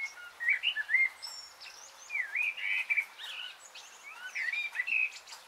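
Birds chirping and whistling: many short, quick calls that rise and fall in pitch and overlap one another, over a faint hiss.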